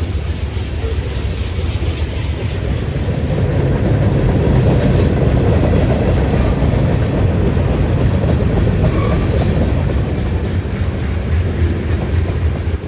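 Freight train rolling past on the rails, a loud steady rumble of wheels and cars that builds to its loudest about four seconds in and eases off near the end.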